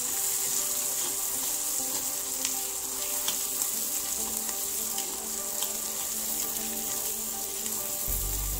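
Ground ginger paste sizzling in hot oil with mustard seeds and curry leaves in a clay pot, stirred with a spatula: a steady frying hiss with a few light clicks.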